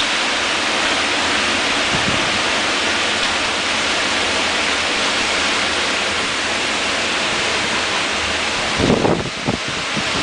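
Wind storm: a loud, steady rushing roar, with a few heavier low thumps and swells about nine seconds in.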